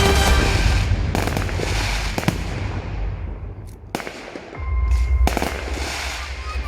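Fireworks shells bursting in a display, several sharp bangs with crackle and a low rumble. Accompanying music fades out in the first second, and a held musical note comes in about four and a half seconds in.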